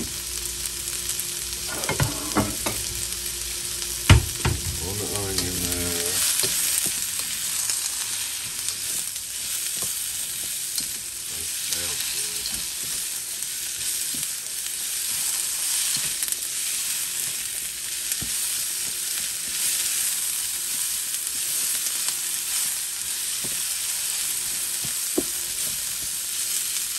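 Sliced onions and chopped garlic sizzling in oil in a wok, stirred with a spatula that knocks and scrapes against the pan. There is a sharp knock about four seconds in.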